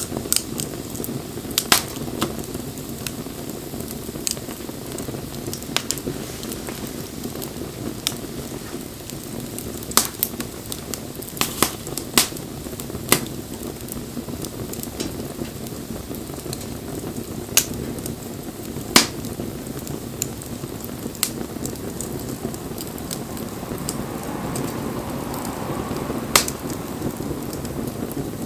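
Wood fire crackling, with irregular sharp pops scattered through it over a steady low rush.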